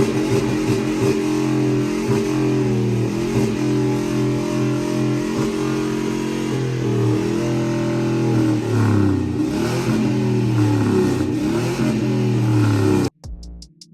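A truck's engine running loud at raised revs, its pitch dipping and rising several times in the second half. The sound cuts off abruptly near the end.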